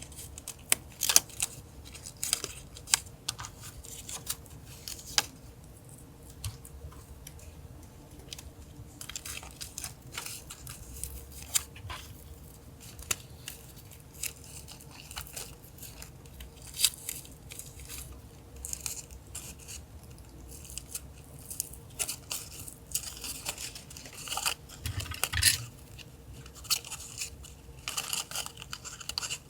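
Paper and stickers being handled, peeled and torn for a journal collage: irregular short rustles, crackles and tears. A faint steady hum runs underneath.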